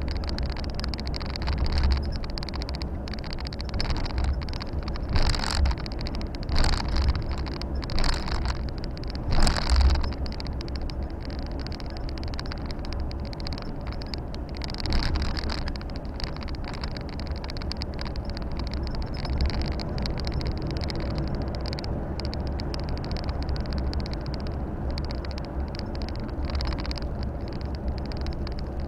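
Volvo FH 460 truck driving, its 13-litre six-cylinder diesel and road noise making a steady low rumble, with a few short louder surges of noise about a third of the way in.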